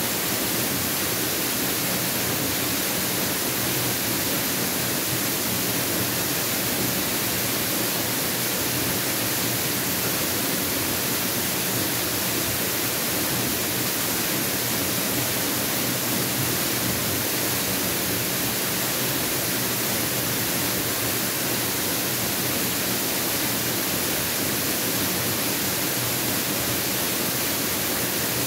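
Mountain waterfall: water falling and splashing, a steady, even rush with no change in level.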